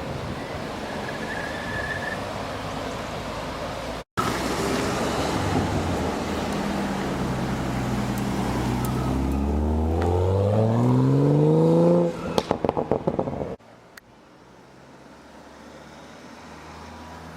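A car engine accelerating hard, its pitch climbing steadily as it comes closer and grows loud. It then breaks into a short run of rapid pulses and cuts off suddenly.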